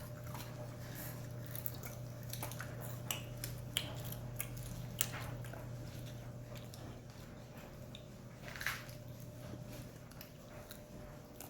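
People biting and chewing chicken wings, with scattered short crunches and mouth clicks. A steady low hum runs underneath.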